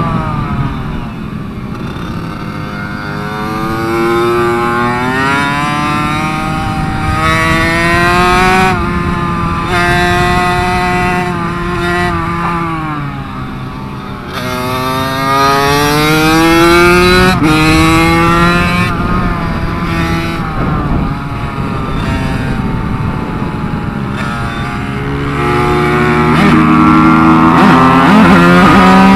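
KTM 65 SX two-stroke minibike engine under way, its pitch climbing again and again as it accelerates, then dropping sharply when the throttle closes or it shifts.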